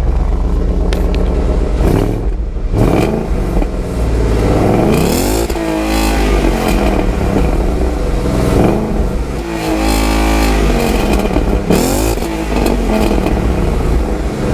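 Ford Mustang GT V8 running with a lightly tuned exhaust, a steady deep rumble revved up and let fall back several times.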